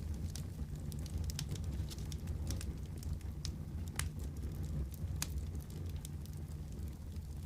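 Wood fire burning in a fireplace: a steady low rumble of the flames with irregular sharp crackles and pops, the loudest about four seconds in and again about five seconds in.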